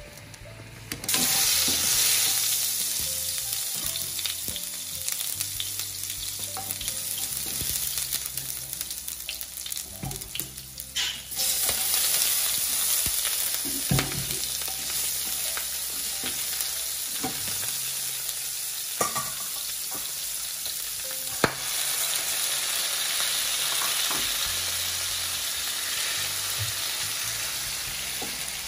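Shrimp and garlic, then chopped tomatoes, sizzling hard in hot oil in a nonstick frying pan while being stirred with a plastic slotted spatula. The sizzle starts loudly about a second in, drops away briefly about a third of the way through, then carries on, with a few sharp clacks of the spatula against the pan.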